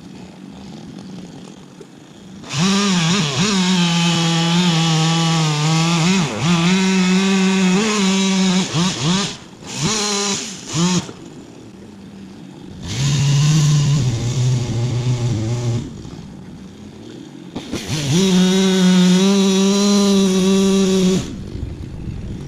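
Chainsaw run up to full throttle in four bursts of one to six seconds, dropping back to a low idle between them; the third burst runs at a lower pitch.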